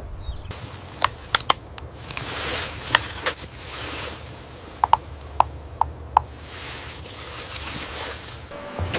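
A cutting tool snipping, in a series of sharp clicks, some ringing slightly, with brief rustling over a low steady hum.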